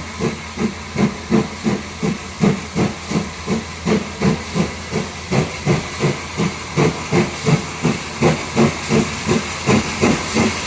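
GWR 4575 class 2-6-2 prairie tank locomotive 5552 working hard up a steep incline on a wet rail. Loud, even exhaust beats come about three a second over a steady steam hiss: the engine is labouring on the climb.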